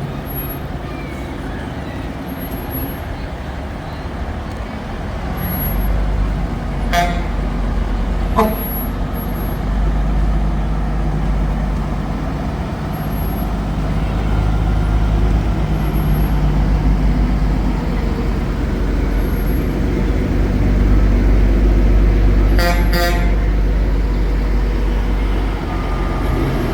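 Fire truck's diesel engine rumbling as it passes, heavier from about six seconds in. Two short horn toots come at about seven and eight and a half seconds, and a longer pulsing horn blast comes near the end.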